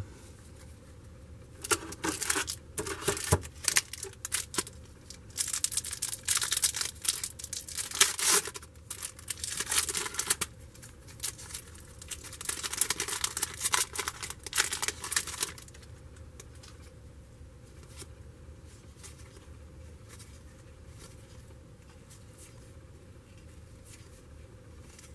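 A trading-card pack wrapper being torn open and crinkled in irregular rustling bursts. The sound stops about 15 seconds in, leaving a low steady room hum.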